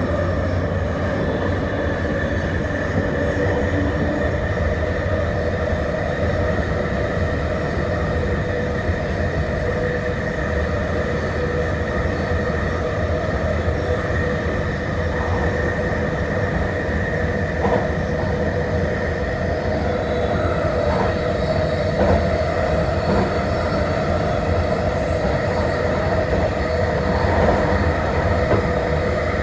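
Vancouver SkyTrain Millennium Line train running steadily along the guideway: a constant rumble with a held whine over it, and a few faint clicks in the second half.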